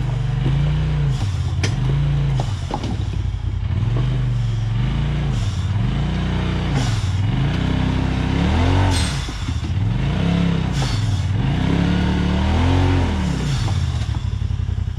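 Off-road vehicle engine revving up and falling back again and again in short throttle bursts, about one every one and a half to two seconds, as it crawls over rocks. A few sharp knocks sound in between.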